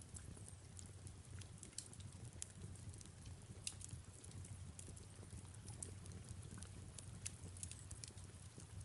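Fireplace crackling, with many irregular sharp pops and snaps over a low steady rumble, and soft rain falling.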